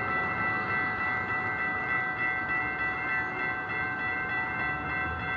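Amtrak Pacific Surfliner train giving off a steady, high-pitched multi-tone whine over a low rumble.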